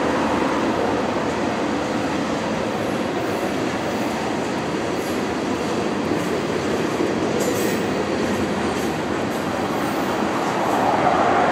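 Tank cars of a CSX freight train rolling past on the rails: a steady rumble and clatter of steel wheels on track, getting louder in the last second.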